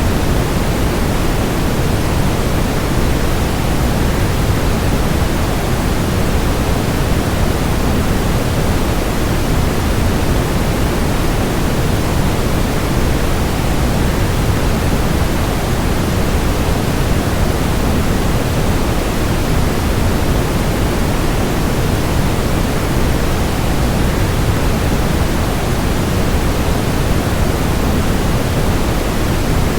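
Steady, unchanging rushing noise, deepest in the low end: a waterfall blended with white noise.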